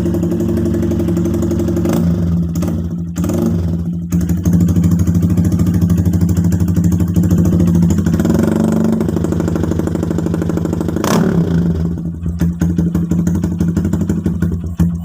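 Honda Verza motorcycle's single-cylinder engine running through an aftermarket RCB exhaust, idling with a steady beat. The throttle is blipped a few times, and the note turns uneven near the end.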